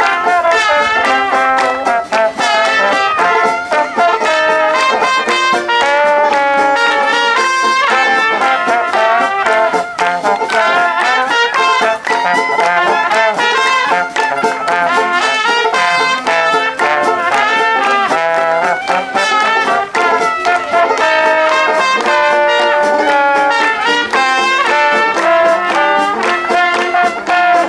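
Brass music: a melody with a held, wavering tone that plays on without a break.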